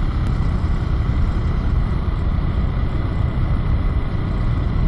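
Steady low rumble of a vehicle underway, unchanging, with no distinct engine note or revving.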